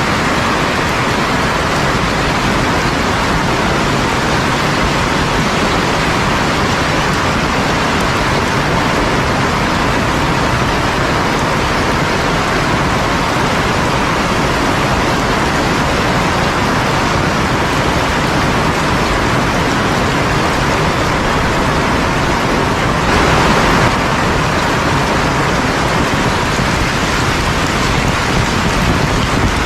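Heavy rain falling steadily, a dense even noise, with a brief swell in loudness about three-quarters of the way through.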